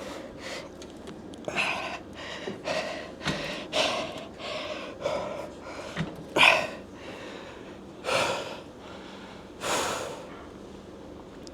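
A man breathing hard and gasping through a set of leg extensions pushed close to failure, with sharp, noisy breaths every half second to a second. The longest, strongest breaths come in the second half.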